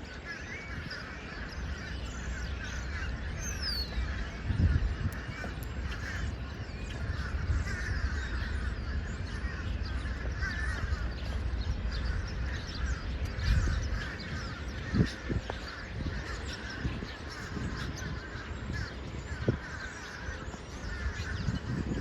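A large flock of birds calling all at once: a dense, continuous chatter of many overlapping calls, over a low rumble that swells a few times.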